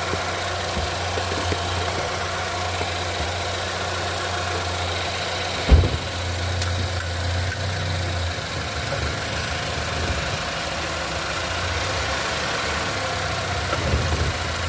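Car engine idling steadily, with one heavy clunk about six seconds in and a smaller knock near the end, typical of the engine lurching on a worn motor mount as the car is shifted or braked.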